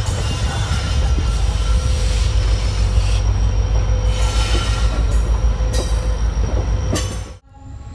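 Passenger train running, heard from on board: a steady low rumble of wheels on rail with a faint steady whine and a few sharp clacks. The sound drops away abruptly a little after seven seconds in, leaving a much quieter rumble.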